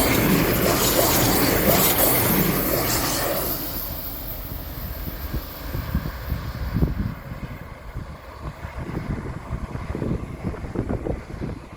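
A train passing close by, loud at first and dying away after about three and a half seconds. After that, wind gusts buffet the microphone.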